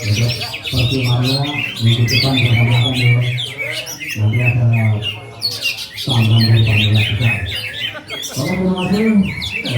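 Several caged green leafbirds (cucak ijo) singing at once in competition, a dense unbroken chorus of rapid chirps, trills and whistles, with crowd voices underneath.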